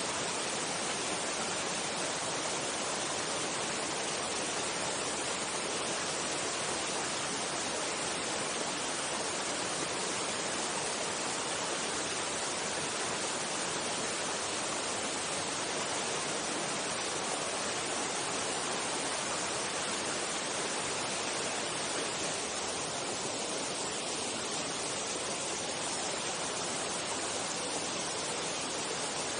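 Mountain stream water rushing steadily, a constant even rush with no break.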